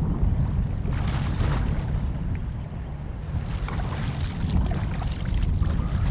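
A person splashing in river water while swimming, in bursts about a second in and again from about halfway on, over wind rumbling on the microphone.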